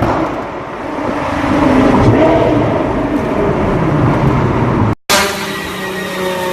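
Performance car engine and exhaust running loudly, its pitch rising and falling with the revs. About five seconds in the sound breaks off and a different car's exhaust note follows, brighter and steadier.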